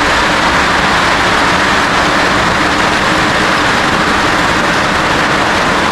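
Heavy rain falling steadily on a new roof, a loud even hiss.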